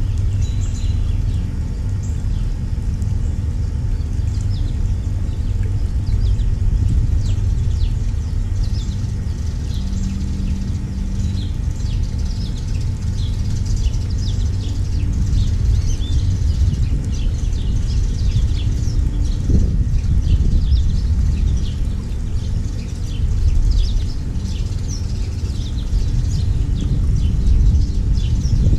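Finches chirping, many short high calls through the whole stretch, over a steady low rumble.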